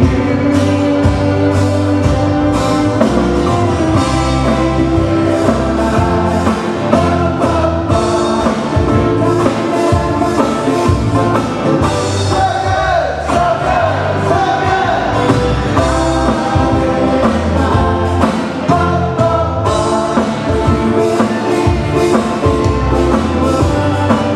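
Live band playing a Hawaiian-style song, with singing voices over a steady bass line.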